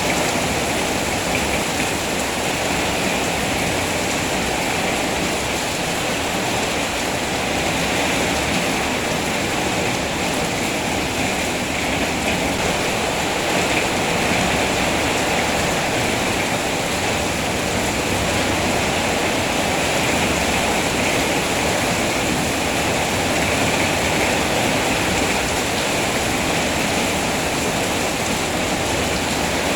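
Steady heavy rain, a constant even hiss with no breaks.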